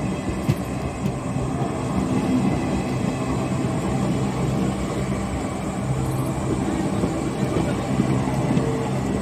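Indian Railways passenger train coaches rolling past close by: a steady rumble of wheels on rail, with a few light clicks from the running gear.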